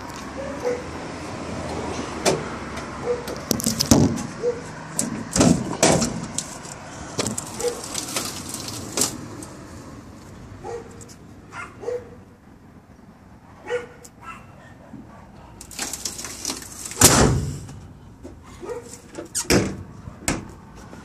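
A series of irregular knocks and clunks, the loudest and longest about 17 seconds in, with a few short faint squeaks between them.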